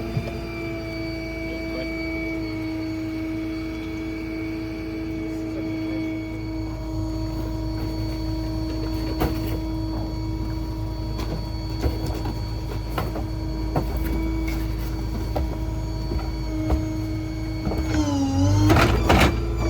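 Small rear-load garbage truck's hydraulic packer running: a steady whine over the engine's rumble, with scattered knocks and clanks. Near the end the whine sags in pitch and recovers a couple of times as the compaction cycle loads the engine.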